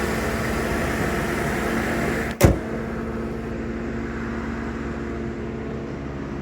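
2002 Ford Thunderbird's 3.9-liter aluminum dual-overhead-cam V8 idling steadily, with a single sharp slam about two and a half seconds in, after which the engine sounds a little quieter and more muffled, as when the hood is shut.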